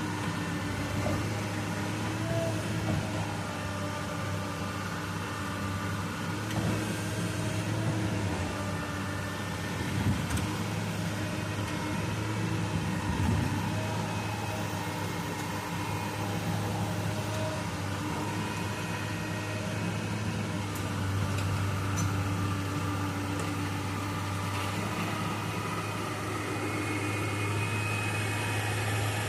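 Excavator's diesel engine running steadily with a low drone, with whining tones above it that shift a little in pitch as the machine works. A couple of light knocks come midway.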